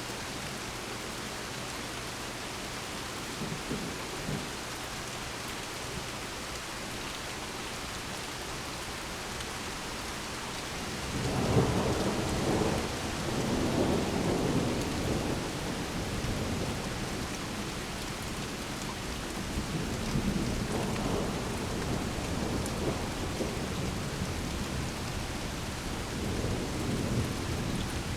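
Steady rain falling, with thunder rolling in about a third of the way through and rumbling on in several swells.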